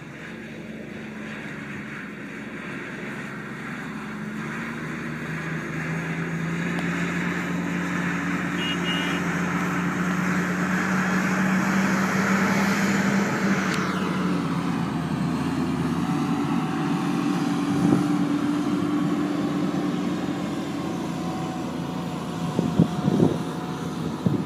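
Heavy diesel engine of a rock truck working, its note building in loudness over the first dozen seconds and then holding steady. A few sharp clanks come near the end.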